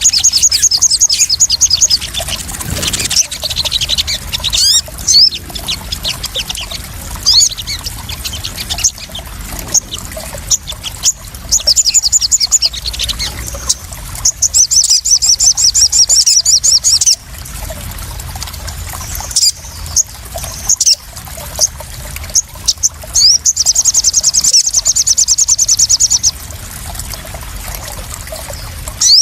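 Sogon sunbird song: rapid, high-pitched trills lasting two to three seconds, repeated four times, with single sharp chirps in between. Trickling, splashing water runs steadily beneath it.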